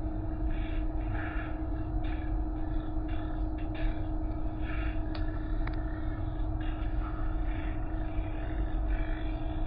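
Car wash machinery running: a steady hum over a low rumble, with irregular bursts of hiss and a couple of faint clicks about five seconds in.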